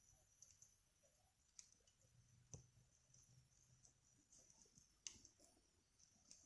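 Faint, sparse crackles and ticks of a small wood fire burning in a Picogrill 398 fire pit, a few sharp clicks over a near-silent background.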